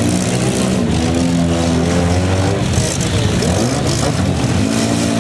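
Engines of several compact demolition derby cars running and revving, their pitch rising and falling as the cars manoeuvre.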